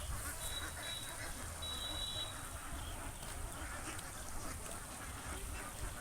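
Domestic ducks quacking over a steady noisy background, with short high tones in the first two seconds.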